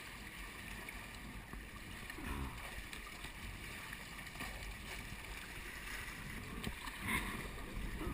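Water splashing and lapping around a kayak as it is paddled, with wind noise on the camera microphone.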